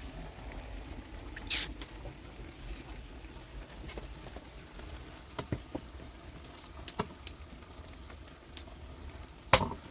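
Scattered light taps and knocks over a low steady rumble, with one sharper, louder knock near the end.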